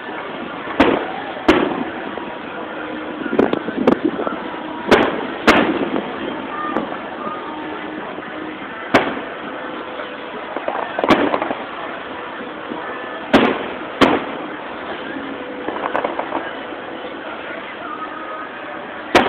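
Aerial firework shells bursting with sharp booms, about eleven of them at uneven intervals, some in quick pairs.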